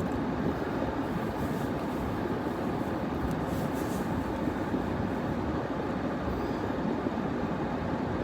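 Steady rumble of a truck idling with its heater running, heard inside the cab as it warms up in freezing weather.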